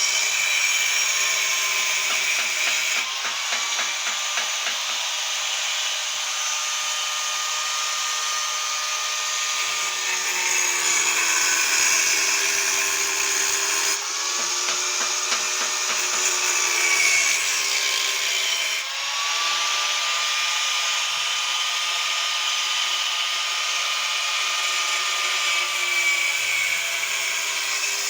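Electric power tool running under load while working on an exhaust pipe: a motor whine over a harsh high hiss, its pitch sagging and recovering as the tool bites. The sound changes abruptly a few times.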